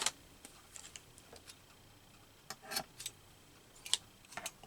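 Scattered small clicks and taps from handling paper craft pieces and tools on a tabletop, a few light ticks every second or so.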